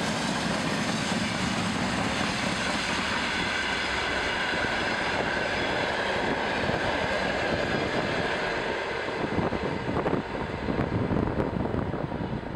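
Freight wagons of a long train rolling past at speed: a steady rush and rumble of steel wheels on rail with a faint ringing tone. Near the end the sound turns uneven and choppy as the last wagons pass.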